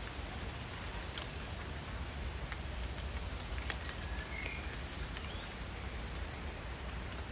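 Steady rain with scattered sharp drips, and a bird chirping briefly about four seconds in.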